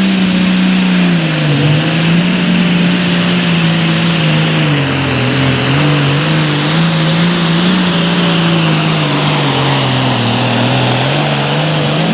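A Super Farm class pulling tractor's turbocharged diesel engine running hard under load. Its pitch wavers, sagging lower about halfway through and again near the end.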